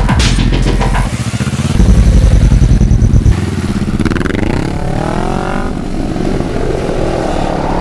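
Motorcycle engine revving, its pitch rising and falling repeatedly in the second half, after a few seconds of heavy, pulsing low-end sound.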